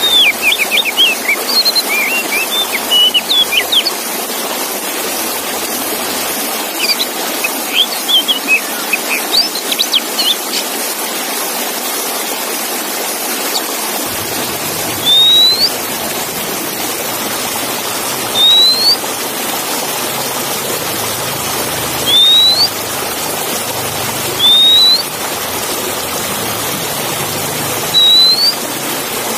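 Oriental magpie-robin (kacer) song: two bursts of quick, varied chirps, then five single rising whistles at intervals of about three seconds, over a steady rushing noise like running water.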